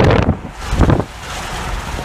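Strong gusty wind buffeting the microphone, loudest in the first second and easing after that.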